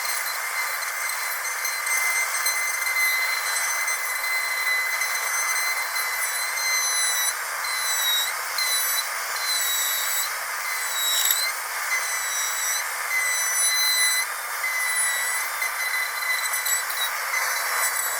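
Dentist's drill whining steadily at high pitch over a hiss, its pitch dipping briefly a few times.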